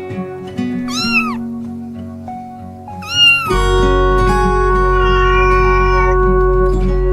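A cat meowing twice, two short rising-then-falling meows about two seconds apart, over soft background music that settles into long held tones after the second meow.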